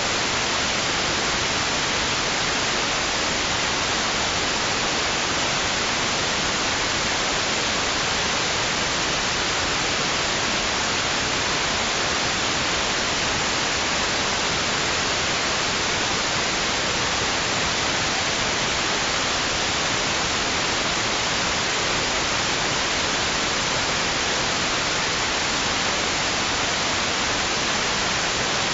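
Steady white noise: an even, unchanging hiss, strongest in the highs, with no rise and fall of waves. It is played as a soothing sleep sound for babies.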